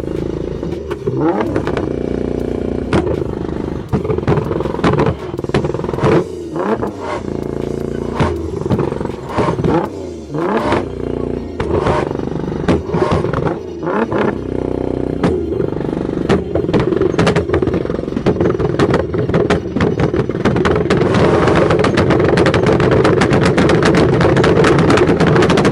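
Modified car engines revving up and down over and over, with frequent sharp exhaust pops and bangs between revs. Near the end one engine is held at high revs, the loudest part.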